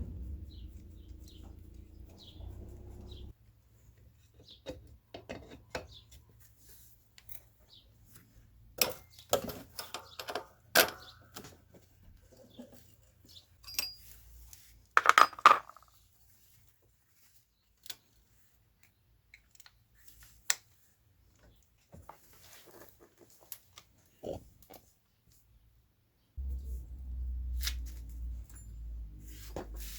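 Scattered metallic clinks and taps of tools and parts being handled, the loudest cluster about halfway through. A low steady drone stops about three seconds in and cuts back in abruptly near the end.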